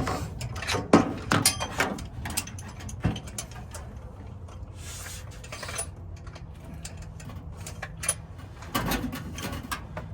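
Irregular metallic clicks and clinks of hand tools and valvetrain parts as the rocker arms and pushrods are taken off an LS V8's cylinder heads, busiest at the start and again near the end.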